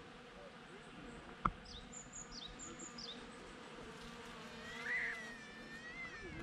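Honeybees buzzing steadily as they forage, with a sharp click about a second and a half in, a few short high chirps around two to three seconds, and a louder rising-and-falling call about five seconds in.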